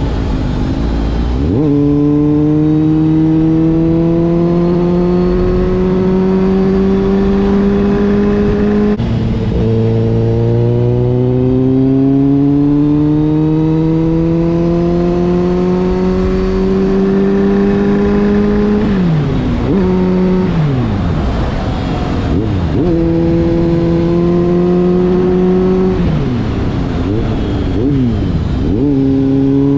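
Kawasaki Z800 inline-four with an aftermarket Giannelli exhaust, ridden through the gears. The engine note climbs slowly, drops at a gear change about nine seconds in, and climbs again. Past the middle the note dips and wavers as the bike slows, holds steady for a few seconds, dips again near the end, then rises.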